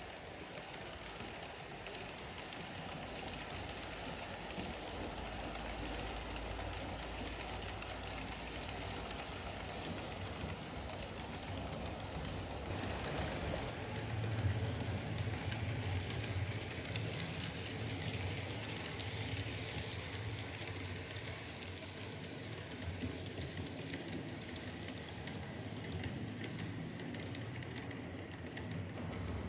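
Model train running on a layout: a steady mechanical whir from the locomotive's small electric motor and wheels on the track, with a low hum that grows louder about halfway through.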